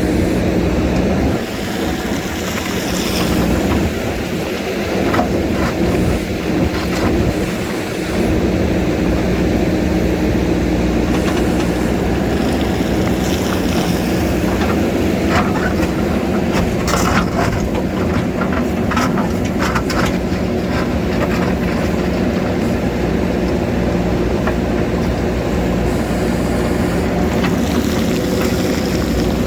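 JCB backhoe loader's diesel engine running steadily under load, with scattered scrapes and knocks of the bucket on rock, thickest in the middle stretch.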